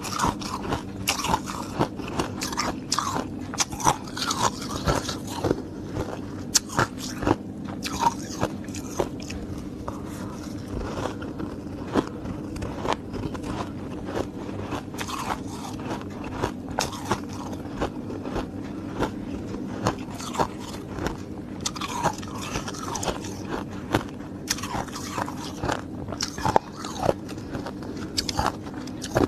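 A person biting and chewing hard ice, with many sharp, irregular crunches and cracks coming in quick clusters, over a steady low hum.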